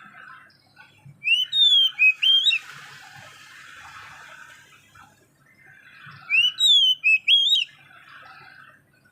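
A songbird sings two loud phrases of clear whistled notes, rising and falling, about a second in and again about six seconds in. Softer twittering fills the gaps between them.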